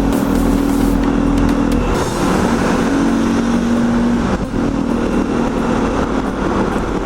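Motorcycle engine running while under way, with heavy wind and road noise. The engine note shifts slightly about two seconds in and again around four seconds.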